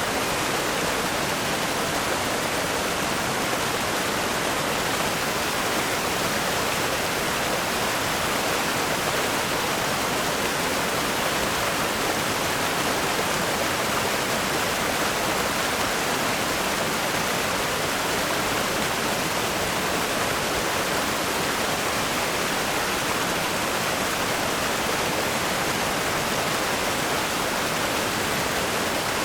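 River rapids rushing over rocks: a steady, even roar of white water with no change.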